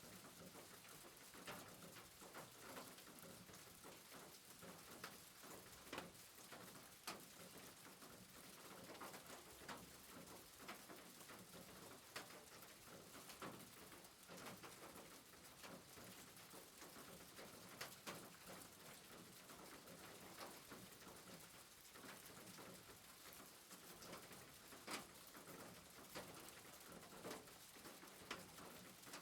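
Faint soft rain: a steady hiss with scattered ticks of drops falling at irregular intervals.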